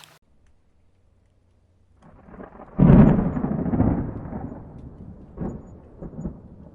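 Thunder: after about two seconds of near silence a low rumble builds into a sudden loud clap about three seconds in, then rolls away over a few seconds with smaller rumbles near the end.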